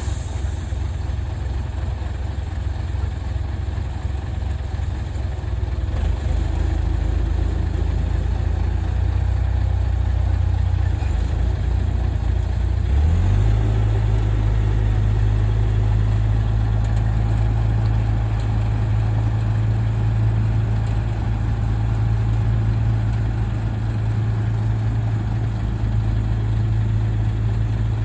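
Heavy earth-moving machine's diesel engine running steadily with a deep low note. The note steps up and grows a little louder about halfway through, as the engine picks up revs.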